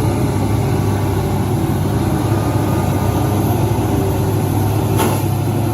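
Heavy diesel engine of a truck or excavator running steadily at low speed, with one short sharp click about five seconds in.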